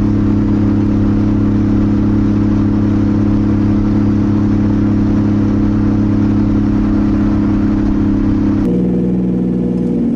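Nissan 240SX's turbocharged 2JZ-GTE straight-six running at a steady, even engine speed, heard from inside the cabin. Near the end the engine note changes abruptly to a lower, different sound.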